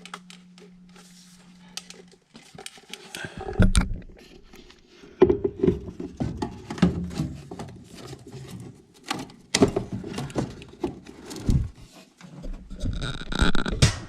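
Hands-on handling of a furnace's inducer draft motor being fitted into place: irregular knocks, clicks and scraping of parts, with the sharpest knocks a few seconds in and near the end.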